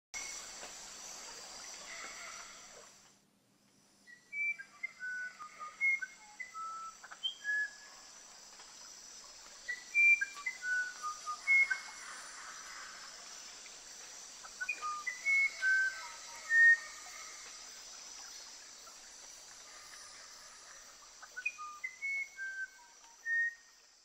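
A bird singing phrases of short, clear whistled notes at varying pitches, a new phrase every few seconds, over a steady high hiss of forest ambience.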